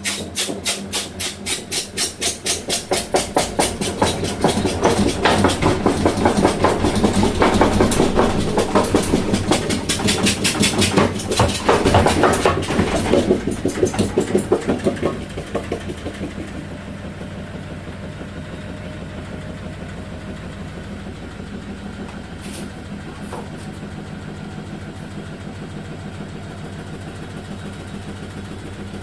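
Beko HTE 7616 XO washing machine drum banging and grating in a fast, even knock that grows louder, then about halfway through the knocking stops and a steady motor hum remains. The banging comes from a polystyrene foam transit block left under the machine, still holding the drum.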